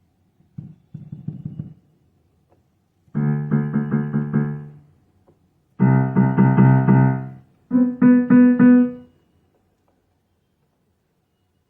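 Donner DDP-60 digital piano played in short bursts: a soft phrase near the start, then three louder passages of quickly repeated chords, each breaking off into a second or so of silence.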